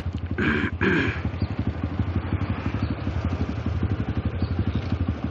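Motorcycle engine idling steadily at a standstill, a fast, even pulsing of firing strokes with no revving.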